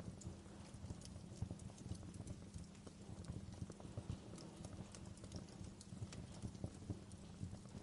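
Wood fire crackling in a fireplace: irregular sharp pops and snaps of burning firewood, several a second, over a low steady rumble of the flames.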